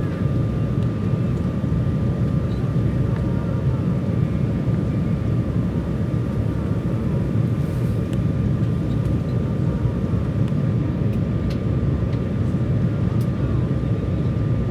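Steady cabin noise inside an Embraer 195 jet airliner on approach: a low rumble of airflow and General Electric CF34 turbofan engines, with a thin steady whine over it.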